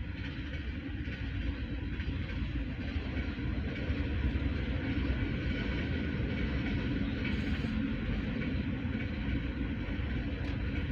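Freight cars of a CSX trash/manifest train rolling past with a steady rumble of steel wheels on the rails.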